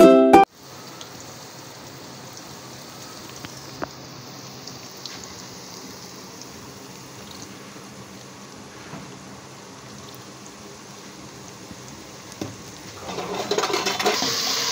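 A low steady hiss with a few faint clicks of handling. Near the end, louder sizzling of food frying in a pot comes in and keeps going.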